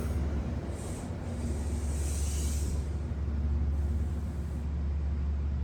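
Metro-North P32AC-DM diesel locomotive running at the station with a steady low rumble, joined by a high hiss lasting about two seconds near the start.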